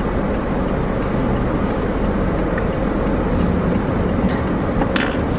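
Steady engine and road noise inside the cabin of a moving Toyota car.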